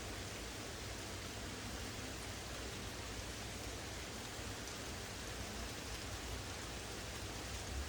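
Steady rain falling in a thunderstorm, an even hiss with no distinct drops or thunder claps standing out.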